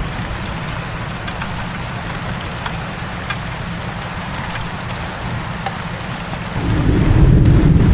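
Heavy rain falling steadily, a dense hiss with scattered drop ticks over a low rumble. About six and a half seconds in, a deeper rumble of thunder swells up and grows louder.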